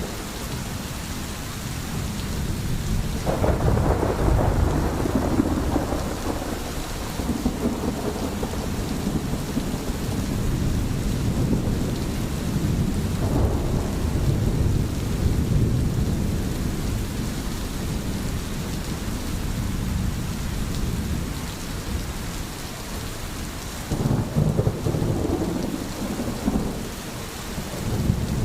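Steady heavy rain with low rolling thunder rumbles that swell about three seconds in, again around thirteen seconds, and near the end.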